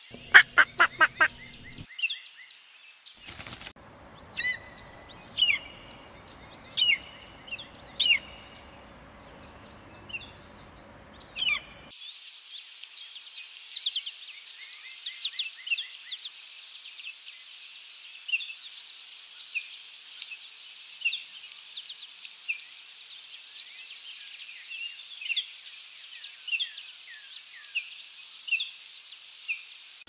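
Bird calls: a loud, harsh call repeated quickly for about two seconds, then single sharp rising whistles about once a second. About twelve seconds in, a dense chorus of many birds takes over, with a fast, steady trill under scattered chirps.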